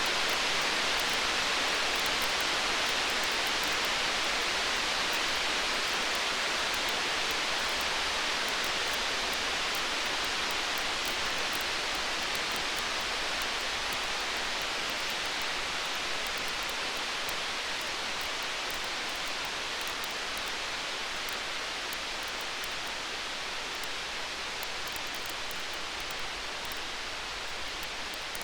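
Storm-night ambience: a steady rushing hiss of rain with faint, fine crackles of a wood fire, slowly fading a little.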